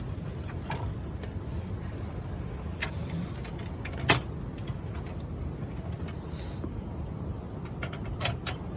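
Wood campfire crackling: irregular sharp pops and snaps over a steady low rumble, with one louder pop about four seconds in.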